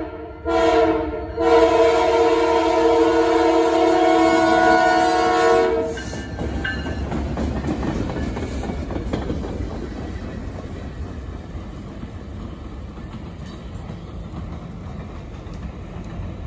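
Diesel locomotive's multi-chime air horn blowing a chord at a grade crossing: a short blast and then a long one, which cuts off about six seconds in as the locomotive passes. Then the engine and the wheels on the rails rumble past and slowly fade as the train, one hopper car, moves away.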